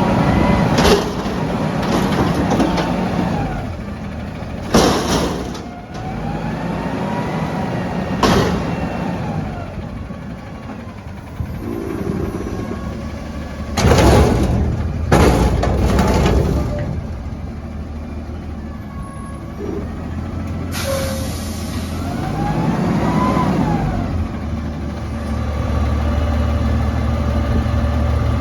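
Autocar ACX garbage truck with a Heil DuraPack Half/Pack front-loader body working a dumpster: the engine revs up and drops back several times to drive the hydraulics, with loud metallic bangs scattered through and a burst of air hiss about three-quarters of the way in, then settles into a steady low idle.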